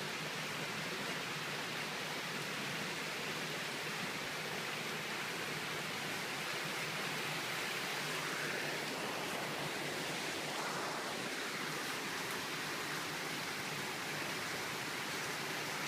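Typhoon rain and wind: a steady rushing hiss with no let-up.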